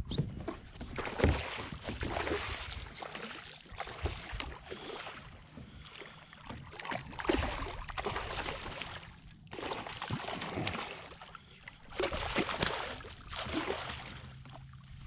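Water splashing and sloshing around a kayak in repeated swells every second or two.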